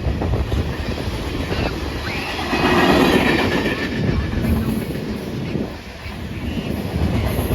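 CN freight train cars rolling past, wheels clicking and rattling over the rail joints, with a brief faint wheel squeal about three seconds in.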